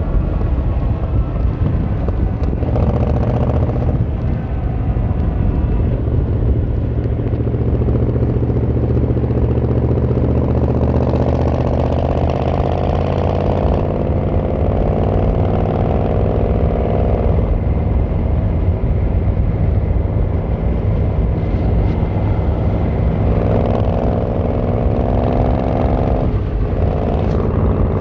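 Yamaha XVZ1300 Royal Star's V4 engine and exhaust running under way. The pitch rises several times as it accelerates and drops back between pulls.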